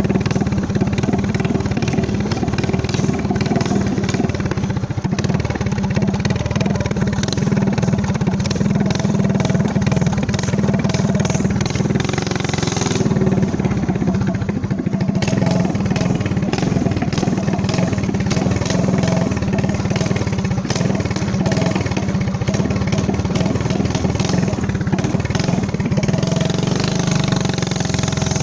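Motovox minibike's Predator 212 single-cylinder four-stroke engine, fitted with a trumpet exhaust and VM22 carburettor, running steadily under way.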